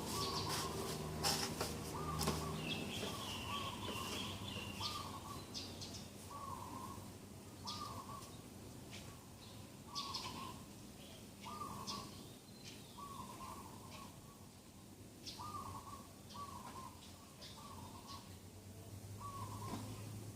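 Several birds calling in morning ambience. One bird repeats a short mid-pitched note about once a second, while sharper high chirps and a brief trill come in over it early on.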